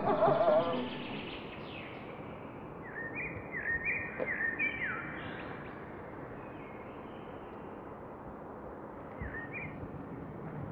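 Small birds chirping: a run of short, quick rising chirps a few seconds in and a couple more near the end, over a steady background hiss.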